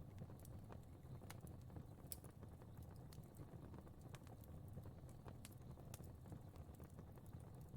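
Faint crackling fire: irregular sharp snaps and pops, several a second, over a low steady rumble.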